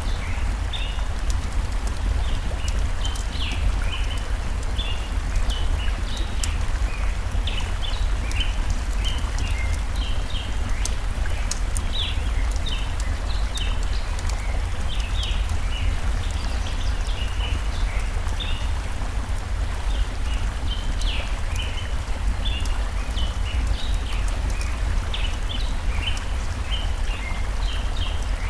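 Forest stream ambience: a steady rush of flowing water with many short bird chirps throughout, and scattered small crackling pops from a burning campfire.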